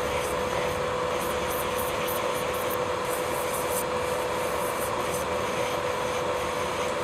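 Electric nail drill (e-file) running at a steady speed: a constant whine over a hiss as the bit works the cuticle area and nail surface during nail preparation.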